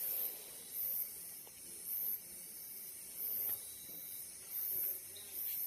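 Short, very high hissing pulses repeating roughly once a second, with a few faint crackles from the wood bonfire.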